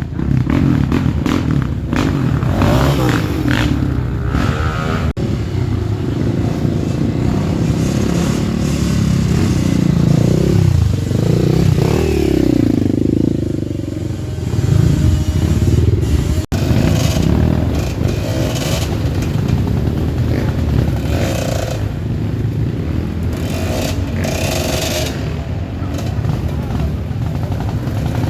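Off-road trail motorcycle engines revving hard, engine speed rising and falling, with two sudden brief breaks where the footage is cut.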